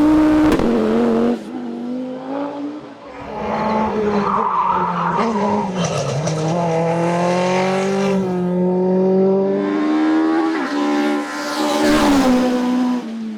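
Racing car engines at full throttle on a hillclimb course. The engine note climbs and then drops sharply again and again as the cars change gear, with a few abrupt switches from one car to the next.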